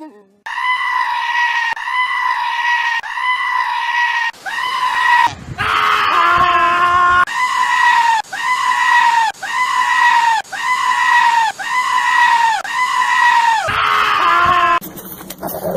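A goat screaming over and over, about a dozen short, high, human-like cries roughly one a second, with a couple of longer drawn-out cries in the middle and near the end.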